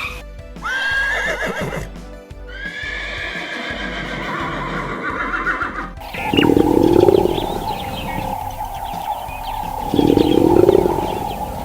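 Horse neighing: two whinnies, each rising and then wavering, in the first half. After a cut about halfway through, two louder, lower sounds of uncertain source come over a steady tone.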